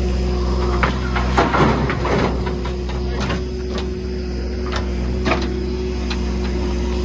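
A JCB earthmoving machine's engine running steadily, with scattered sharp clanks and knocks and a brief louder rush of noise about a second and a half in.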